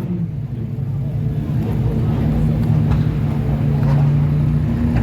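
Sports car engine idling steadily with a low, even hum.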